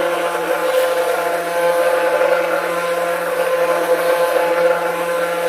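Handheld stick (immersion) blender running steadily in a pot of soap batter, oils and lye solution being blended toward a light trace. Its motor holds one steady pitch.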